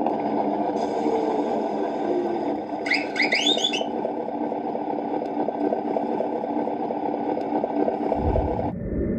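Beier SFR-1 sound module in a Tamiya Scania RC truck playing an open-pipe V8 engine sound through the model's small speaker, running steadily. About three seconds in, a brief series of rising high whistling tones plays over it. Near the end the running sound gives way to a short deep rumble.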